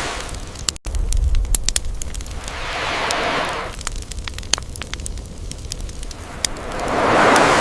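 Campfire crackling with sharp pops, while ocean waves wash in and swell and fade about every four seconds. The sound cuts out briefly about a second in.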